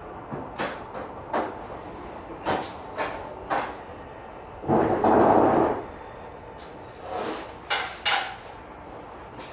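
Irregular knocks and clanks of hands and tools working on a car body, with a louder scraping noise lasting about a second near the middle.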